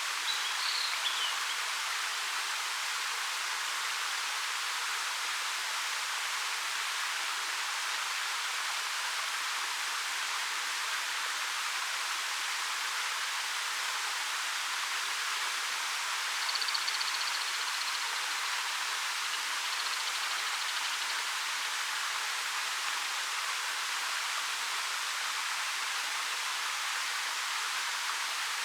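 A 13 m waterfall falling steadily: an even, unbroken rush of water. A small bird chirps briefly, high-pitched, about a second in and again a little past halfway.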